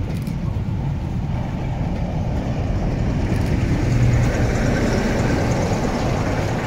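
Passenger coaches rolling past on the rails, followed by a diesel locomotive at the rear of the train. The rumble grows loudest about four seconds in, as the locomotive passes, with a brief low engine note.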